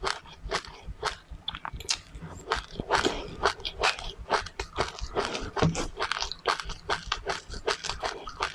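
Mouth chewing crunchy seeds: a quick, uneven run of sharp crunches, several a second.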